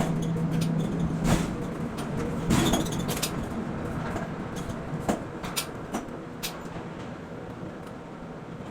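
Quay crane machinery at work: a steady motor hum that dies away about a second in, followed by a series of irregular metallic clanks and knocks, typical of containers being handled.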